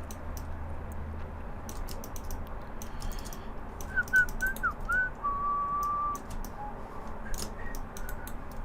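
A person whistling a few short notes, then one longer held note, about four seconds in, over steady computer keyboard typing and mouse clicks.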